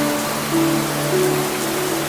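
Slow music of long held notes over a steady low tone, layered on the even hiss of falling rain.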